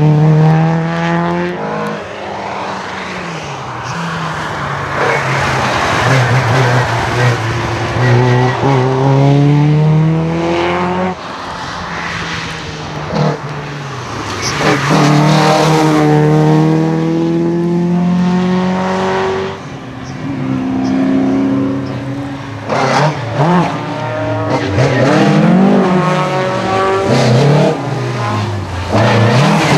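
Rally cars at full stage pace, engines revving hard and climbing through the gears with a break at each upshift. In the last third the engine speed swings quickly up and down as the cars brake and downshift.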